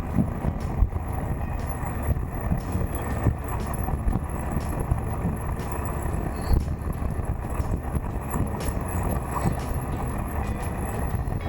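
Wind rushing over the camera microphone while riding a Suzuki GSX1400 motorcycle, a steady low rumble of wind and road noise with the engine underneath. Small gusts of buffeting come and go.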